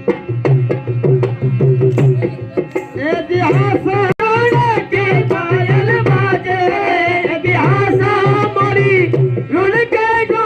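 Live Rajasthani folk music: a hand drum plays a steady, quick rhythm, and a melody line joins about three seconds in and carries on over the drum.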